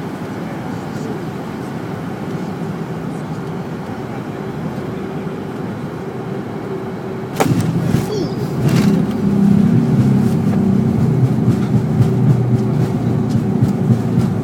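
Fokker 100 jet cabin noise on final approach, with a sudden thump about halfway through as the wheels touch the runway. After the touchdown the noise jumps louder, with a steady low hum and a few knocks as the plane rolls out.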